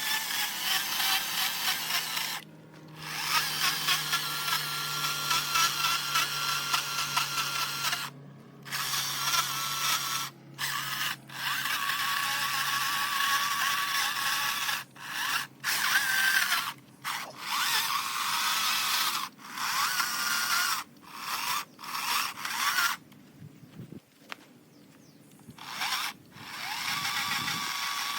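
A handheld power tool working wood in repeated bursts, starting and stopping about a dozen times with short pauses between.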